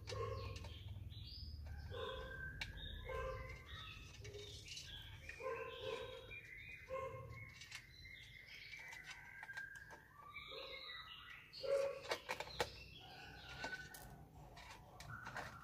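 Birds chirping over and over with short calls, and a few sharp clicks about twelve seconds in.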